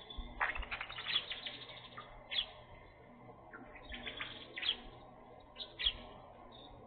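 Small birds chirping in several quick bursts of rapid, high chirps, with short gaps between them.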